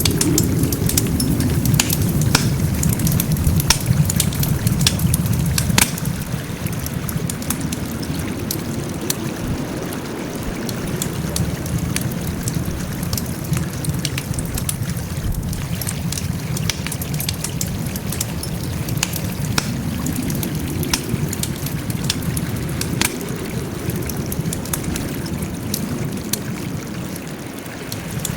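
Wood fire burning, with a steady low rush of flames and many sharp crackles and pops, most frequent in the first few seconds.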